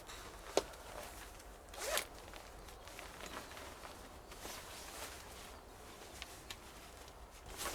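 Faint handling sounds: a sharp click about half a second in, a short rasp around two seconds in, then scattered light ticks and rustles.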